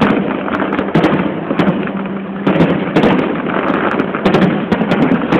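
Aerial fireworks going off: many sharp bangs and crackling pops at irregular intervals over a dense, continuous rumble of noise.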